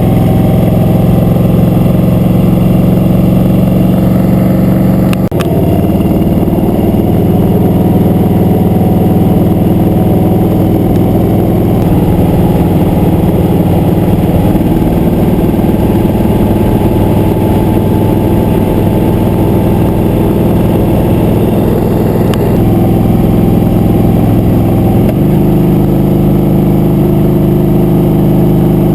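Motorcycle engine running steadily under way. The engine note steps to a new pitch about five seconds in and changes again a couple of times later.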